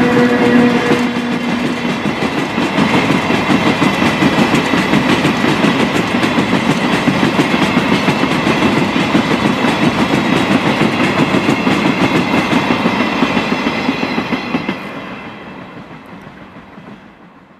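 A freight train of hopper wagons rolling past, the wheels clattering steadily over the rail joints, then fading away near the end as the last wagons pass.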